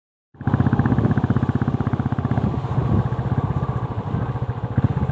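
A vehicle engine running steadily, its rapid, even firing pulses cutting in suddenly just after the start.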